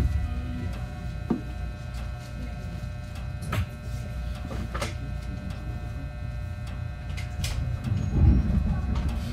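Inside a JR West 221 series electric train's motor car: a low steady rumble and electrical hum, with a few sharp clicks and knocks and a heavier low thump near the end.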